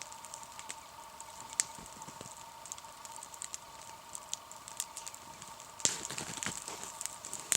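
Campfire crackling in the frost, with scattered sharp pops and a denser run of crackle about six seconds in.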